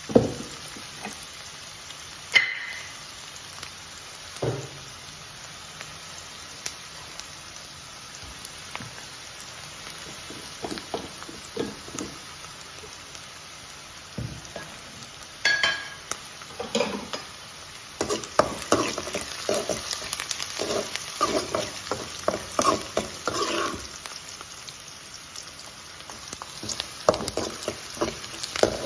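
Chopped garlic, curry leaves and dried red chillies sizzling in hot oil in a metal kadai, while a utensil stirs and scrapes against the pan. There are a few sharp knocks on the pan, and quick runs of scraping strokes in the second half.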